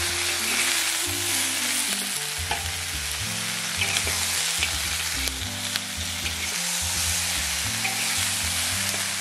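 Pork trotter pieces stir-fried in hot oil with ginger and garlic: a steady sizzle, with small clicks and scrapes as they are turned in the pan.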